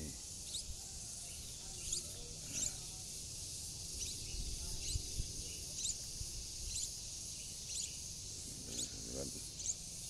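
A small bird gives short, high, falling chirps about once a second over a steady high insect drone.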